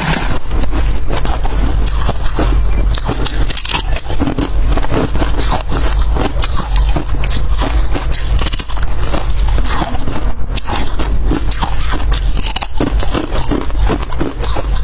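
Freezer frost being bitten and chewed close to the microphone: a dense, continuous run of crisp crunching and crackling.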